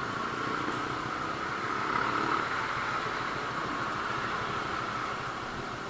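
Suzuki Raider 150 Fi motorcycle engine idling steadily under a constant hiss, with a low, even pulsing that is clearer in the first couple of seconds.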